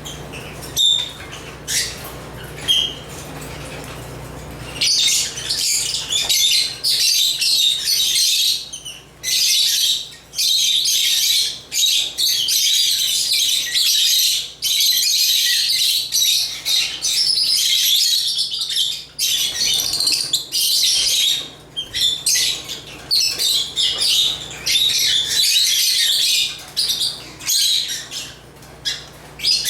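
African lovebirds (Agapornis) chattering and chirping. A few single chirps come first, then from about five seconds in a dense, high-pitched twittering broken by brief pauses.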